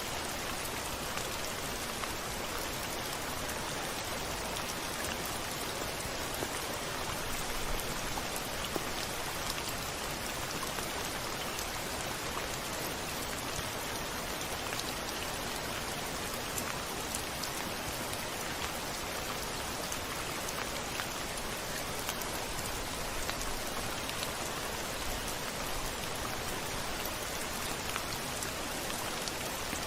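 Steady rain falling on a window: an even hiss with many small drops tapping throughout, no thunder.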